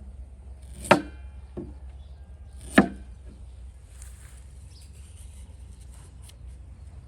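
Two sharp chops of a knife on a cutting board, about two seconds apart, with a lighter knock between them.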